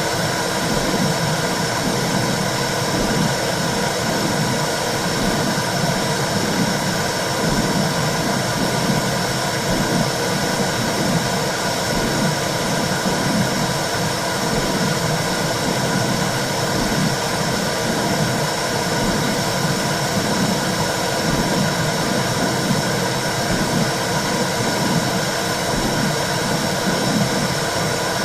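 Womb sound for soothing a baby: a steady whooshing noise with a low, rhythmic pulse running through it, like blood flow and heartbeat heard from inside the uterus.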